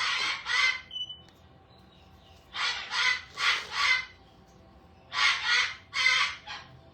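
A pet parrot screaming: harsh, loud screeches in three bouts of two or three calls each.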